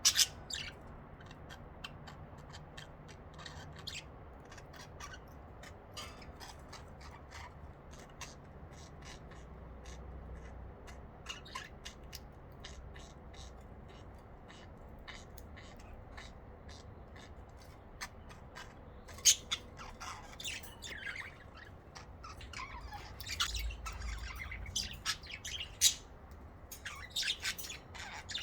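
Budgerigars chirping and squawking in short, rapid calls, sparse at first and growing busier and louder in the last third.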